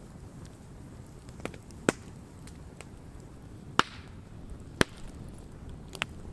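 Wood campfire burning, with irregular sharp pops and crackles from the wood, four of them louder than the rest, over a low steady noise from the fire.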